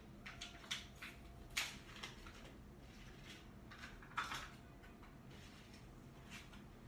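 Faint, scattered clicks and knocks of kitchen items (a can, utensil and dish) being handled while tuna is dished out for a cat, with two louder knocks about one and a half and four seconds in.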